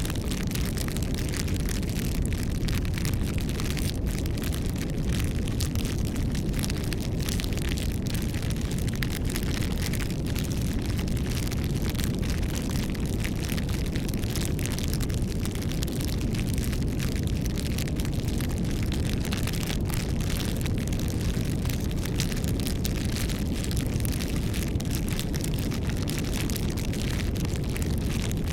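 Campfire crackling: a steady low rush of flame with many small sharp pops and snaps scattered throughout.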